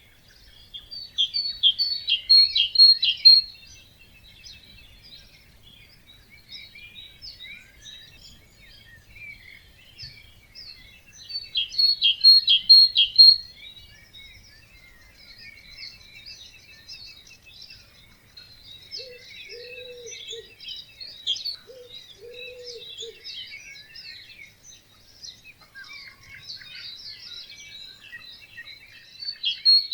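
Dawn chorus of many birds singing at a wetland. One loud, rapid song phrase rings out three times, roughly every ten to fifteen seconds, over steady chirping from other birds. In the middle, a much lower, wavering call sounds twice.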